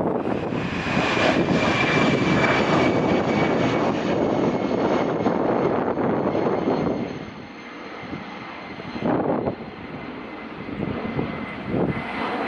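Jet airliner's engines at takeoff power: a steady roar with a thin high whine on top, fading away after about seven seconds, then wind buffeting the microphone.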